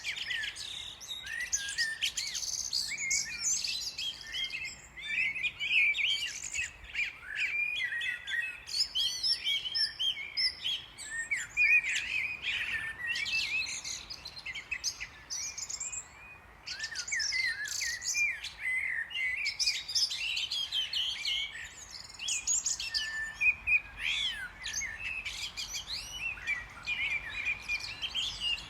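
A dense chorus of many small birds chirping and twittering continuously, with overlapping short, high calls.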